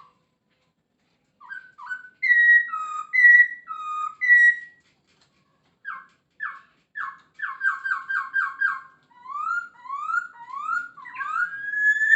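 Poksay Hongkong, a laughingthrush, singing loud clear whistles. First comes a two-note phrase repeated three times, then a quick run of short notes. It ends with a string of rising slurred whistles and one long held whistle.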